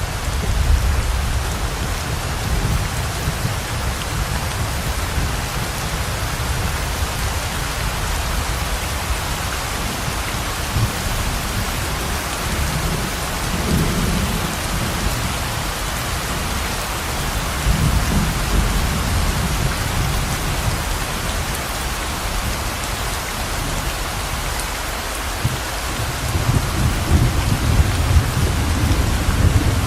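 Heavy rain pouring steadily, with low rumbles of thunder swelling up a few times, the longest near the end.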